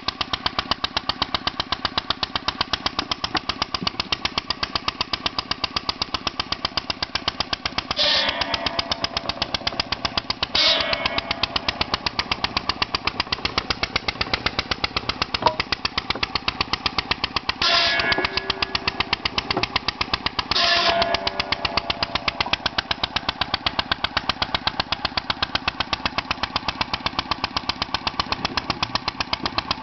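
International Harvester stationary engine of 3 to 5 hp running steadily with a rapid, even exhaust beat while it drives a circular saw bench. Four times, at about 8, 10.5, 18 and 21 seconds in, the saw blade bites into a small log, and each cut adds about a second of louder whining and rasping.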